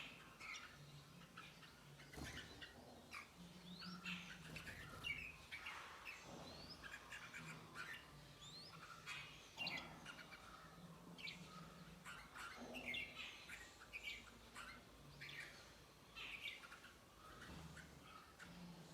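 Small birds chirping and twittering in quick, busy series of short calls, with a few brief rising whistles, over a faint intermittent low hum.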